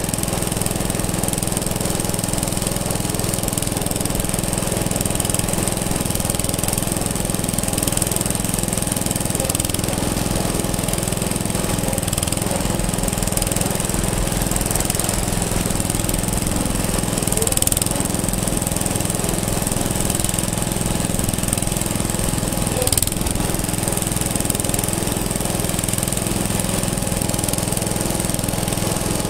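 An antique engine running steadily with a fast, even beat, and two brief sharp clicks partway through.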